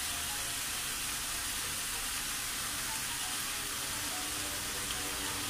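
Chicken pieces and chopped vegetables sizzling steadily in a frying pan over high heat.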